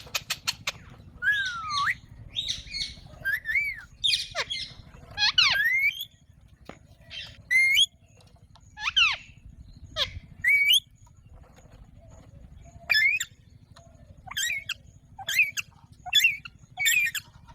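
Alexandrine parakeet calling: a series of short harsh squawks and whistled calls that sweep sharply up and down in pitch, about one a second, with a pause of a couple of seconds around the middle. A quick run of clicks opens it.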